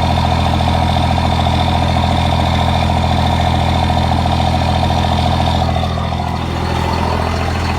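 A 1998 Dodge Ram 2500's 24-valve Cummins inline-six turbo diesel idling steadily with its diesel clatter, exhausting through an 8-inch dump exhaust. The sound drops slightly about six seconds in.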